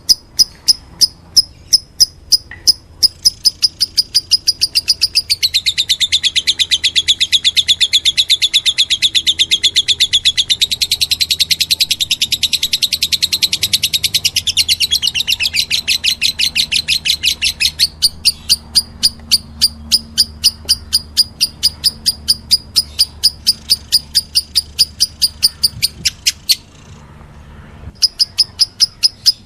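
Lovebird begging chirps during feeding: a steady run of high, evenly spaced chirps about three a second, speeding into a fast continuous trill for several seconds before slowing back to separate chirps, with a brief pause near the end.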